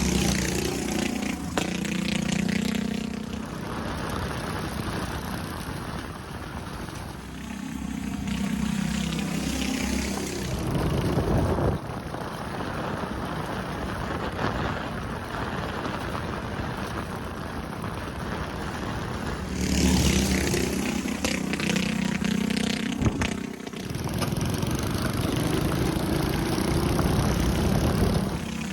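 Small engines of a mini bike and go-kart running and revving as they ride, the engine note rising and falling several times, with a steady rushing noise underneath.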